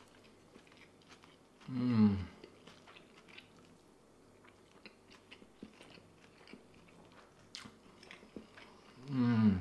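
A man chewing a mouthful of katsudon (pork cutlet, egg and rice), with faint small clicks. Twice, about two seconds in and again near the end, he gives a short hum of enjoyment that falls in pitch.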